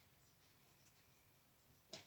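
Near silence: room tone, with one short faint click near the end.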